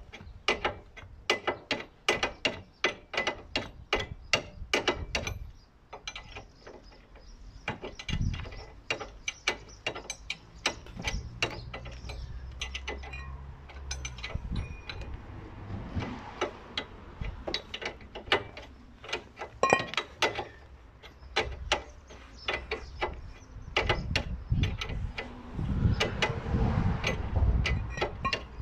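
Socket ratchet wrench clicking in quick runs as bolts are turned, with scattered knocks and clatter of metal tools and parts.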